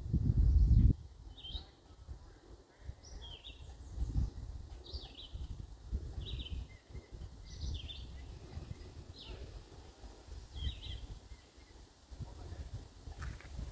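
A songbird calling repeatedly, short high downslurred chirps about once a second, over a low rumbling noise that is loudest in the first second.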